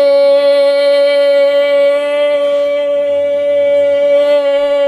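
A woman's voice holding one long, steady sung note, loud and without wavering.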